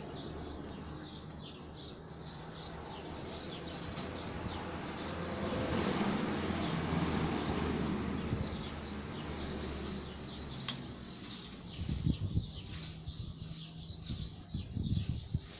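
Small birds chirping in quick, repeated short high notes, over a steady low hum, with a stretch of rustling noise in the middle and a few low knocks near the end.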